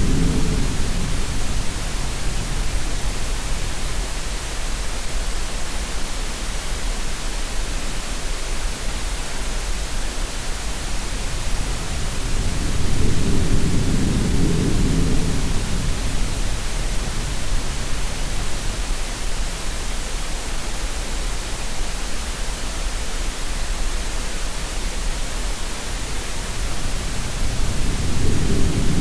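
Steady green-noise hiss layered with sea sounds: a deep, low swell of water rises and fades twice, about fifteen seconds apart.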